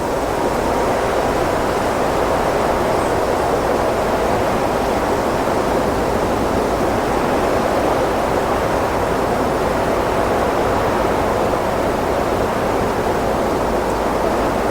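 Wind blowing steadily, an even rushing noise with only slight swells in strength.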